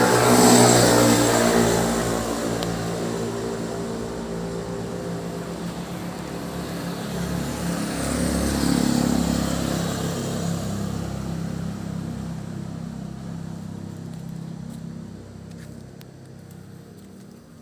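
Motor vehicles passing on a road, engines swelling as each one goes by: one just at the start and another about nine seconds in, then fading away.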